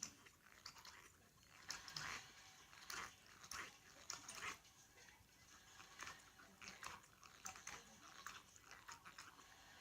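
A pug chewing a rubber Kong toy: faint, irregular gnawing bites and clicks, several a second.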